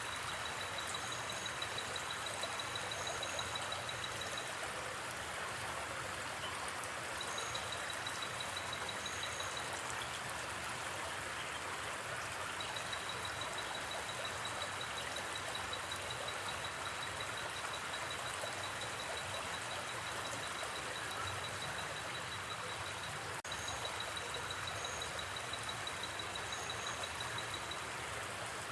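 River water flowing in a steady, even rush, with a high, fast-pulsing trill from the night-forest sounds running in long stretches and breaking off a few times, plus a few short paired chirps higher still.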